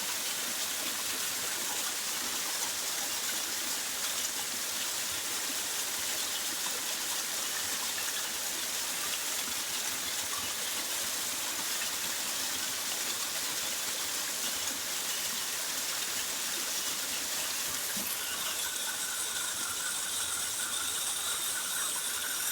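Rainforest stream rushing steadily. Near the end, a few steady high-pitched tones join in over the water.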